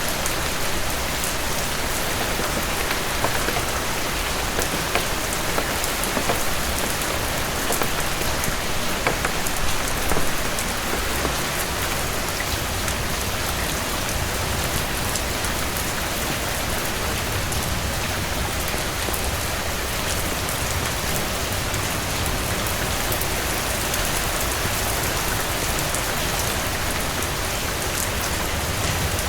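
Steady heavy rain, a dense even hiss, with scattered sharp crackles of a wood fire in a fireplace, a few louder between about four and ten seconds in.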